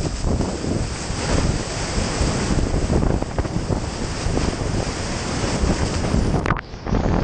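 Surf kayak riding a wave: loud rushing water and surf, with heavy wind noise buffeting the action camera's microphone, dipping briefly near the end.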